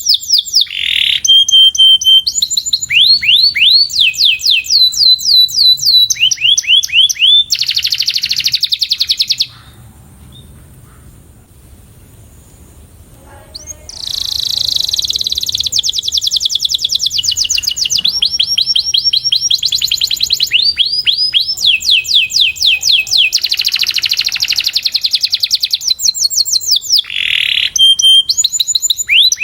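Domestic canary singing: fast trills of repeated rising notes, high-pitched, switching to a new phrase every second or two. The song breaks off for about four seconds near the middle, then resumes just as fast.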